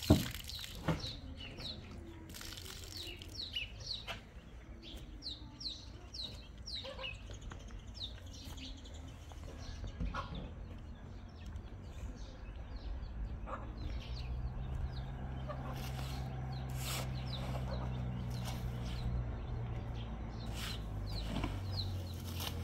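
Birds, chickens among them, chirping: many short, high calls repeated throughout, with a few sharp knocks. A low steady hum comes in about two-thirds of the way through.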